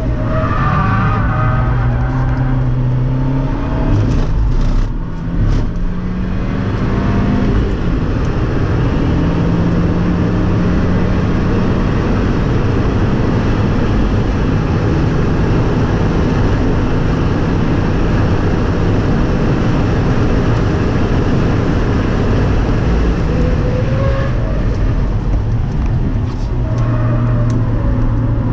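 A 2017 Fiat 124 Spider Abarth's turbocharged 1.4-litre four-cylinder driven hard on a race lap, over heavy wind and tyre noise. The engine briefly lets off about five seconds in, then holds a steady pitch for a long stretch, and drops in pitch near the end as the car slows.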